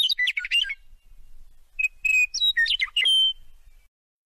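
Birdsong sound effect: two short runs of quick whistled chirps and trills, the second starting about a second after the first ends.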